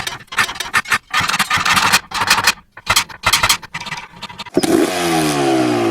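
Yamaha PW50's small single-cylinder two-stroke engine, which starts with rough, irregular bursts of noise. About four and a half seconds in it settles into a clear running note, and its pitch falls steadily as the revs drop.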